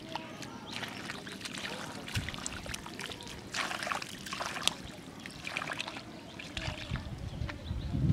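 Hands splashing and scooping in shallow muddy water, with trickling and dripping in irregular bursts.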